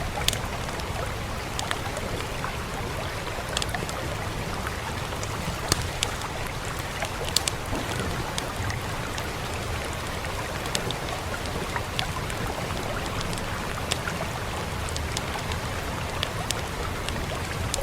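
Wood fire crackling with scattered sharp pops, a few louder ones about six and seven and a half seconds in, over a steady hiss of rain.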